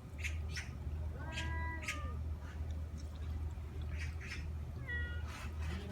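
Cat meowing: one drawn-out, arching meow about a second and a half in and a shorter call near the end, with short sharp clicks in between.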